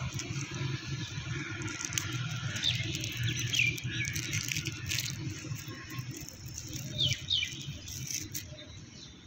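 Small birds chirping, with short falling calls about a third of the way in and again near three-quarters, over a steady low background rumble and a few scattered clicks.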